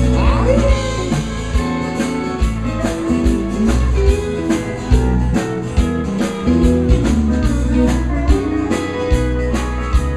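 Country band playing live: guitars over a drum kit's steady beat.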